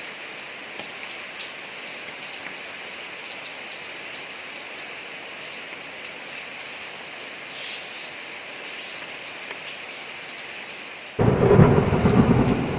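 Steady rain falling on a street, then a sudden loud clap of thunder near the end that rumbles on and slowly fades.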